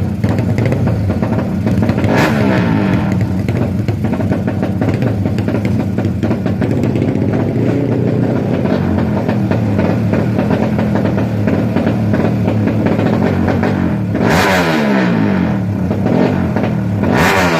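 Racing underbone motorcycles revving hard and accelerating down a drag strip, engine pitch climbing and falling; the loudest runs come about 2 seconds in and twice near the end.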